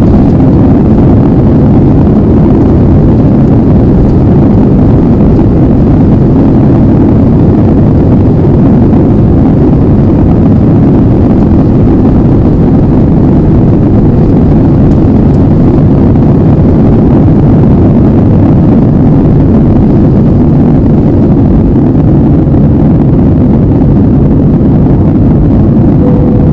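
Airbus A320 jet engine noise heard inside the passenger cabin: a loud, steady low rush that does not change.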